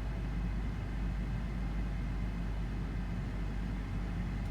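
BMW E60's N52 inline-six idling steadily while warming up just after a cold start, the idle still somewhat high; it runs fairly smoothly on its newly replaced crankshaft position sensor.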